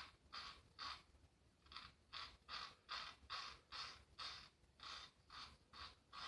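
Vintage FAYNETT Lather Catcher safety razor scraping through lathered stubble in short strokes, about two a second, with a brief pause about a second in and another near the end.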